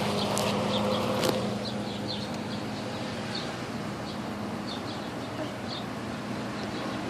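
Steady rain falling, with a lawn mower's engine hum that fades away about a second in. Short high chirps repeat throughout.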